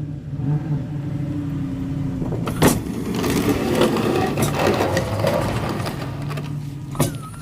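A motor running steadily, with a sharp knock about two and a half seconds in and another near the end, and a rougher, noisier stretch between them.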